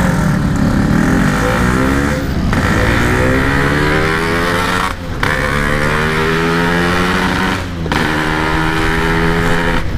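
Yamaha RX-King two-stroke single-cylinder engine pulling hard through the gears, its pitch rising in each gear and dropping briefly at three gear changes, about two, five and eight seconds in. It runs through a stock-style exhaust fitted with packing.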